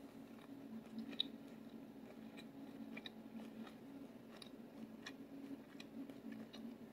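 A person chewing a mouthful of salad with sliced almonds: faint, irregular crunches every second or so. A steady low hum runs underneath.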